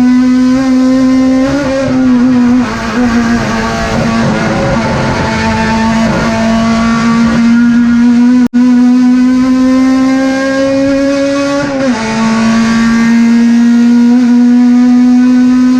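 Turismo Pista Clase 2 race car's engine running hard at high revs, its pitch held nearly steady, with short dips in pitch about two to three seconds in and again about twelve seconds in. The sound cuts out for an instant just past halfway.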